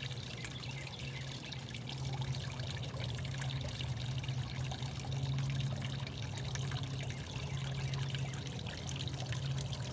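Small homemade pond waterfall trickling and splashing steadily into the pond, with a steady low hum underneath.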